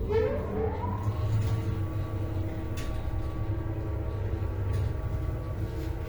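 MLZ passenger lift's two-speed AS-72 motor starting up, with a whine that rises in pitch over about the first second as it accelerates. It then runs at full speed, a steady whine over a low hum, as the car travels. The acceleration whine is pronounced, the motor having had its bearing replaced.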